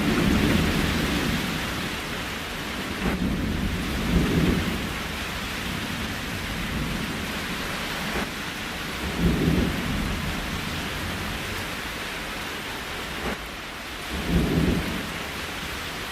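Steady rain, a continuous even hiss, with short low rumbles recurring about every five seconds, four times.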